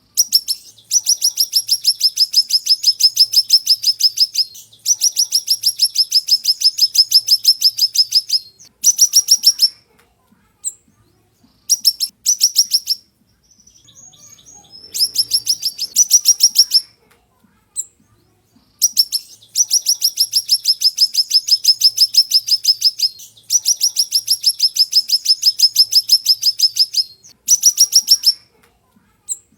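A siri-siri songbird singing fast, sharp trills: long runs of rapidly repeated high notes, about ten a second, in phrases lasting a few seconds with short pauses between them, the song of a bird in full voice, the kind of recording keepers use to train caged songbirds.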